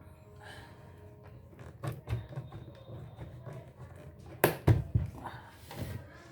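Scattered knocks and clicks of a motherboard and tools being handled on a workbench, with two sharp knocks about four and a half seconds in.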